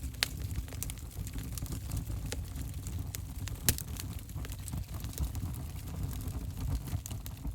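Wood fire burning in an open fireplace: a steady low rumble with scattered sharp crackles and pops, the loudest pop about halfway through.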